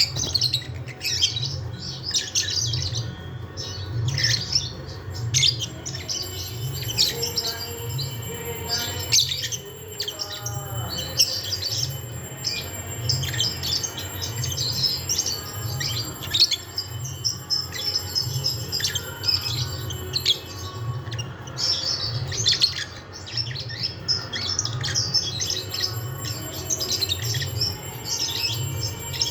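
Birds squawking and chirping in quick, repeated short calls, as in a squabble between two birds, over a low, even pulsing throb.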